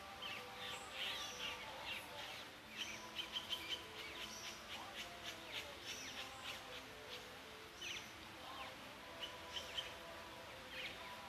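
Songbirds chirping, with many quick, high chirps and short twitters scattered through, over a faint steady background tone.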